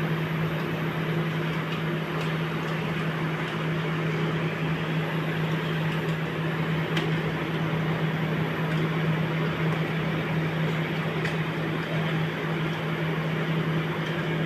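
LG inverter window air conditioner running: a steady hum with the rush of its fan, and a few faint ticks. The light noise is a fan blade loose on its shaft, which wobbles and touches as it turns.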